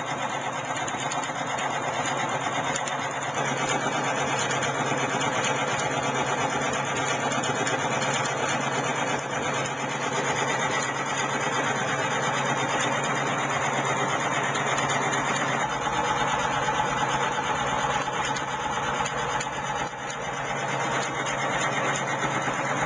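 Home-built pulse-driven electric motor, a coil pulling a rotor magnet, running steadily with a dense buzzing whir. A steady low hum joins in a few seconds in.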